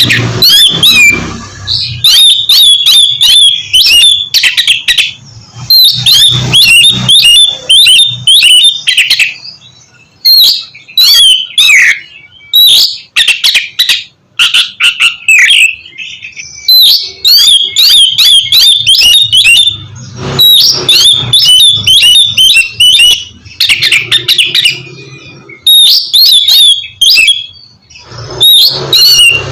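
Oriental magpie-robin (kacer) singing loudly: rapid runs of varied whistles and trills in phrases a few seconds long, with short pauses between them.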